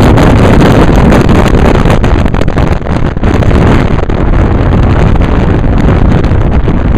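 Wind buffeting the camera's microphone at an open car window while driving, a loud, constant rush mixed with the car's road noise.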